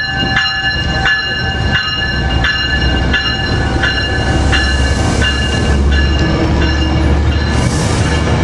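Metrolink cab car's warning bell ringing steadily, struck about every 0.7 seconds, with a deep tone like a freight locomotive's bell. Under it the arriving train's rumble builds and is loudest in the second half.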